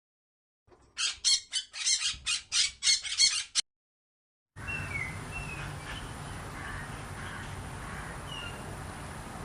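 A bird giving a rapid series of about nine harsh squawks, about three a second, that stops abruptly. After a short gap comes steady outdoor background noise with a few faint, short bird chirps.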